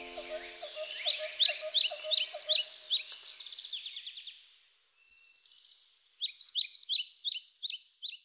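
Birdsong: a bird repeating short, high chirps at about five a second in two runs, with a brief trill between them. A held music chord dies away at the very start.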